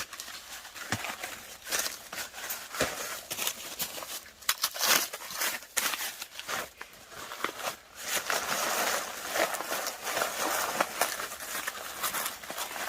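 Irregular rustling and crackling with many scattered sharp clicks, heavier in the second half.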